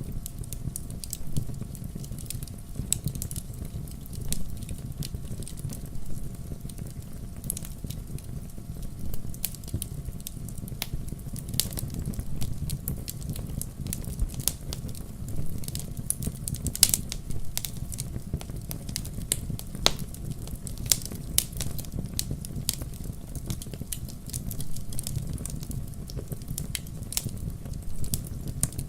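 Wood fire burning in a fireplace, crackling and popping irregularly over a steady low rumble of the flames, with a few sharper pops standing out.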